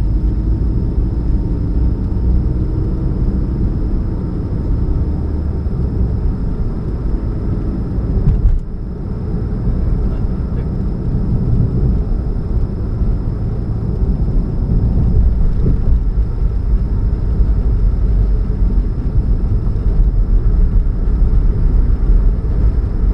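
2013 Chevrolet Spark running with a steady low hum and rumble, with a brief dip about eight and a half seconds in. The humming is put down to an exhaust leak at the catalytic converter.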